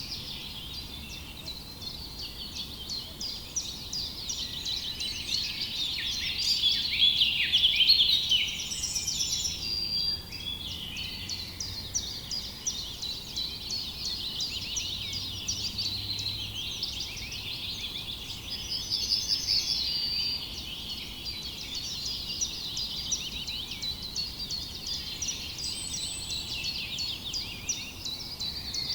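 A dense chorus of many small birds chirping continuously in quick, overlapping calls, swelling louder about seven to eight seconds in.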